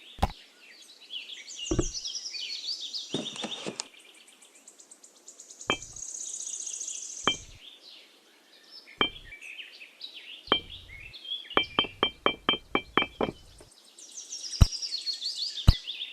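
Birds chirping, with scattered sharp knocks or taps and a quick run of taps, about five a second, in the second half.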